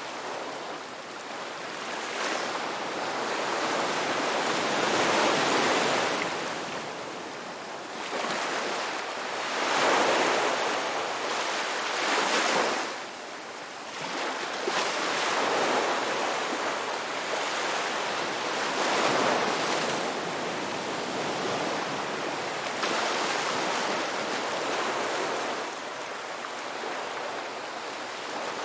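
Ocean waves breaking and washing on a rocky shore, surging and ebbing every few seconds.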